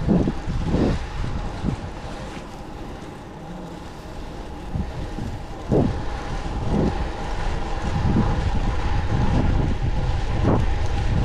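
Wind buffeting the microphone of a moving bicycle, over a low road rumble, with short louder gusts or bumps every second or so; it grows louder about two-thirds of the way through.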